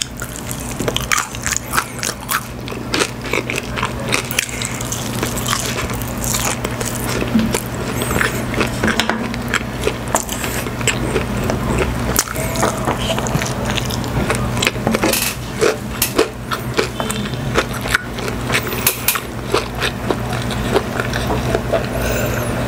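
Close-up crunching and chewing of crispy Korean fried chicken with a soy garlic glaze, and of kimchi rice: many sharp crackly crunches in quick succession throughout, over a steady low hum.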